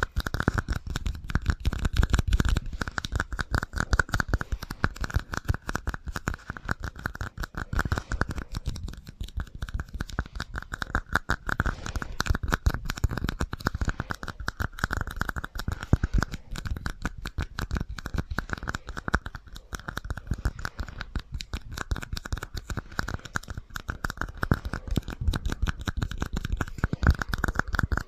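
Dense, rapid tapping and scratching ASMR trigger sounds, run through an echo effect, going on without a break.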